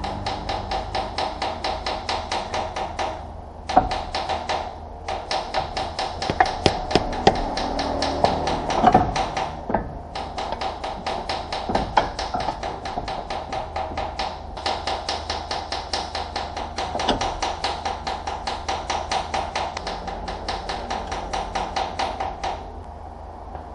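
Rapid, even tapping, about five strikes a second, in several runs with short pauses, and a few louder single knocks between about 4 and 12 seconds in; it stops shortly before the end.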